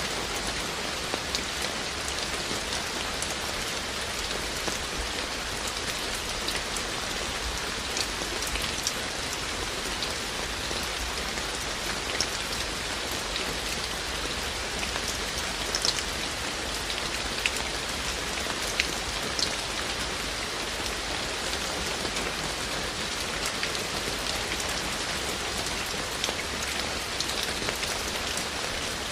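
Steady rain falling, an even hiss with scattered sharper drops striking close by.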